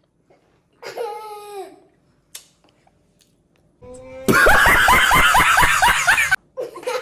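A person laughing loudly and hard, a rapid run of 'ha' pulses about five a second, starting about four seconds in and lasting about two seconds before cutting off suddenly. A short vocal sound comes about a second in.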